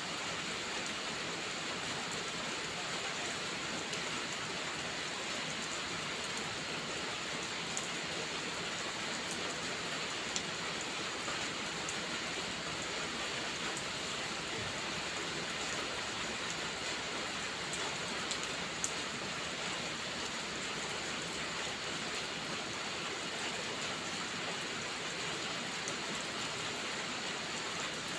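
Steady heavy rain, an even hiss of drops, with a few faint sharp pops from a crackling wood fire.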